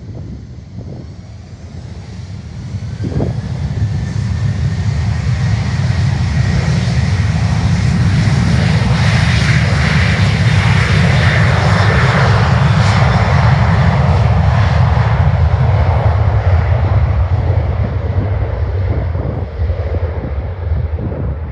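Jet airliner's engines passing by: the noise builds over the first few seconds, stays at its loudest through the middle, then slowly fades. A faint whine sits above the noise early on.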